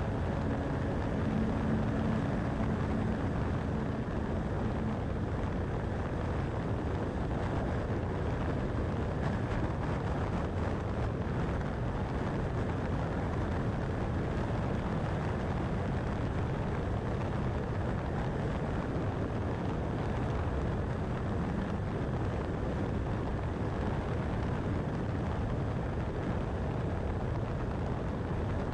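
Steady road noise of a vehicle cruising on a highway, the tyre and engine noise even throughout. A low hum dies away in the first few seconds.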